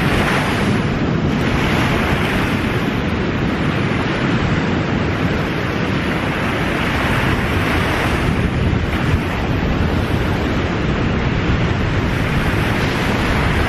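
Surf washing onto a sandy beach, with wind buffeting the microphone; a steady, unbroken wash of noise.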